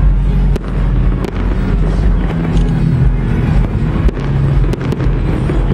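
Fireworks going off: a handful of sharp bangs over a loud, steady low rumble.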